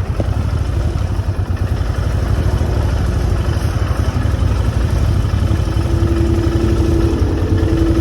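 Kawasaki Vulcan 2000's big V-twin idling steadily with a low pulsing rumble; a thin steady whine comes in about six seconds in.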